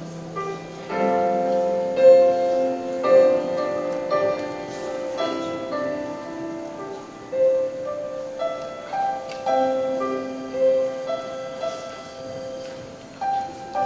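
Slow instrumental music led by piano, with sustained notes struck one after another.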